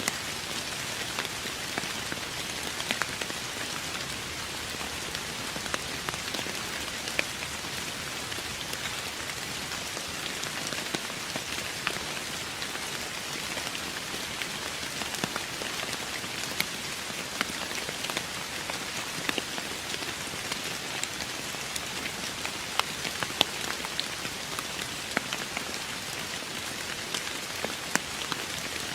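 Steady rain falling, a constant hiss with many close, distinct drops ticking on a surface.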